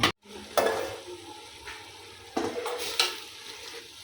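A spoon stirring green leaf vegetables cooking in palm oil in a pot, scraping against the pot three times over a faint steady sizzle.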